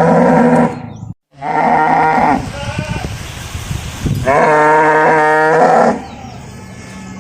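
Cow mooing: long, steady-pitched calls, the longest lasting about a second and a half. The sound cuts off abruptly about a second in, then resumes after a brief gap.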